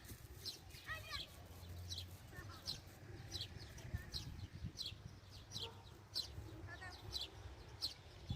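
A small bird chirping over and over, short high chirps that slide downward, about two a second, over a low steady rumble; a brief lower call sounds about a second in.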